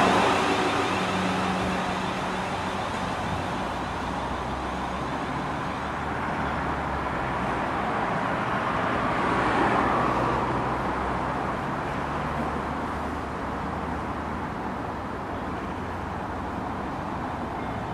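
A passing train's noise dies away over the first couple of seconds. A steady low rumble follows, swelling briefly about ten seconds in.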